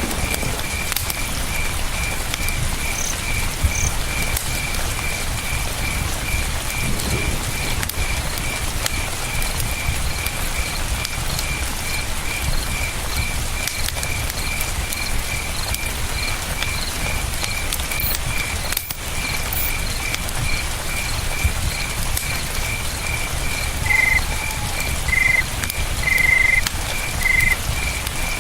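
Campfire crackling over the steady rush of a river, with a cricket chirping in a regular high pulse, about two to three chirps a second. Near the end, four short, louder calls at a slightly lower pitch break in.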